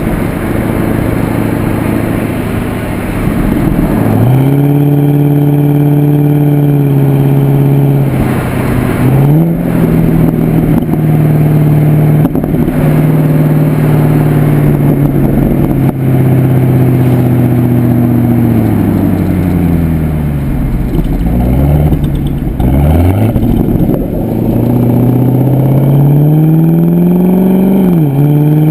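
2009 Pontiac G8 GXP's 6.2-litre LS3 V8 through an aftermarket Corsa exhaust while driving: the exhaust note climbs and holds steady at cruise, drops and swoops up and down as the car slows about two-thirds through, then rises again under acceleration with a quick dip near the end like an upshift.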